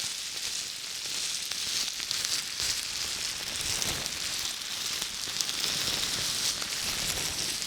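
Continuous crackly scratching and rustling right against the microphone, an ASMR trigger, fuller in the middle and a little softer near the end.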